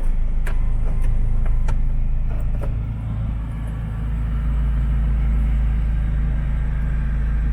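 Steady low rumble of a car in motion, with a few faint clicks over it.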